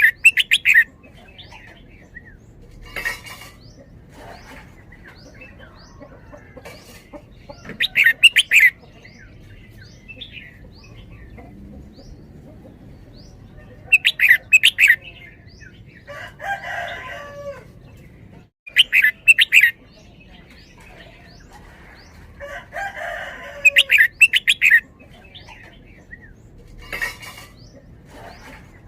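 Red-whiskered bulbul singing short, bright phrases of rapid notes, about five of them spaced several seconds apart. A rooster crows twice in the background between the phrases.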